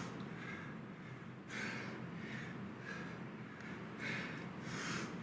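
A man breathing hard from exertion: four sharp, noisy breaths in two pairs, over a steady low hum.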